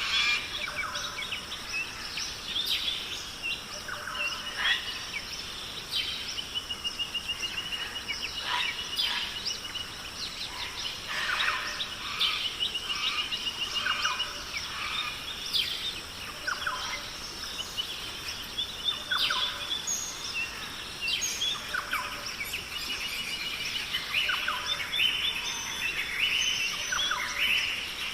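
Rainforest ambience: many birds chirping, trilling and calling over one another, above a steady high insect drone.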